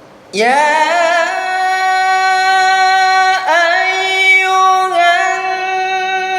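A man's voice reciting the Qur'an in melodic tilawah style, drawing out "yā ayyuhā" in long held notes with wavering ornamentation. It begins about half a second in, with short breaks between the notes.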